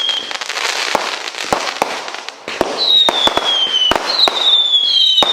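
Consumer firework cake firing: sharp bangs over crackling, with whistling shots whose tone drops slightly, several whistles overlapping in the second half.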